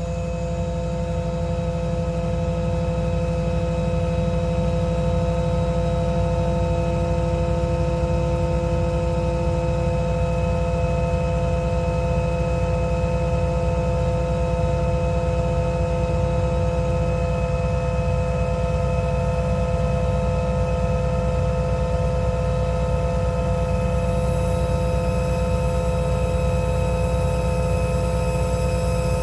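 Truck's Paccar PX7 diesel running with the RC40 air compressor switched on and building pressure: a steady rumble with several held tones. It gets slightly louder in the first few seconds, one tone drops out about halfway through, and higher tones join near the end.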